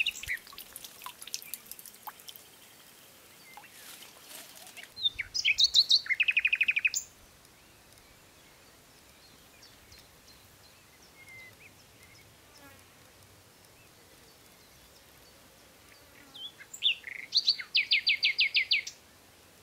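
A bird singing two phrases, about five seconds in and again near the end. Each phrase is a few quick notes running into a fast, even series of repeated high notes.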